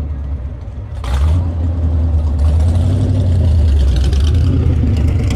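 A vehicle engine running close by with a deep, steady rumble that swells about a second in and stays loud.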